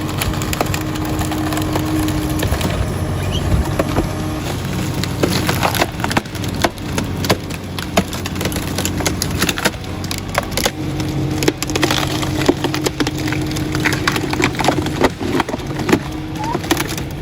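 Wood cracking and splintering under a forestry machine: a dense run of sharp cracks and snaps. Under them is the steady running of the machine's engine, which fades in the middle and comes back for the second half.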